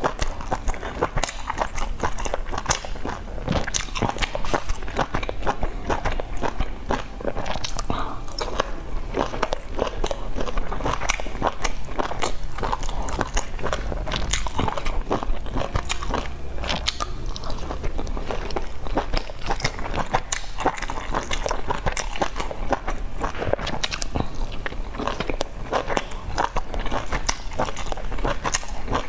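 Close-miked chewing of soft steamed dumplings dipped in chili oil: a steady stream of small mouth clicks and smacks.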